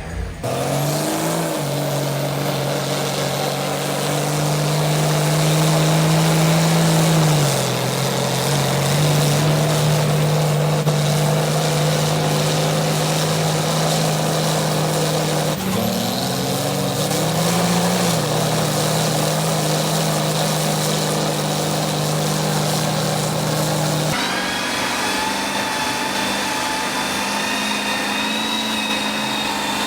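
Mega truck engines revving and held at high rpm. The pitch climbs near the start and again about halfway through, and a different, higher-pitched engine sound cuts in abruptly about six seconds before the end.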